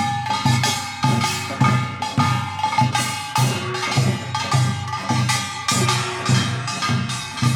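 Korean traditional music led by drums: regular beats about twice a second, with held ringing tones over them.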